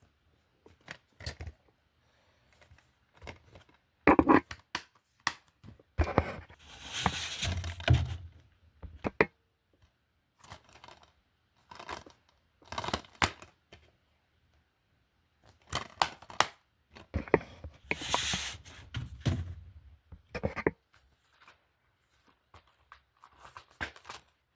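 Plastic disc cases being handled: scattered clicks and knocks with short spells of scraping and rustling, busiest about four to nine seconds in and again about sixteen to twenty-one seconds in.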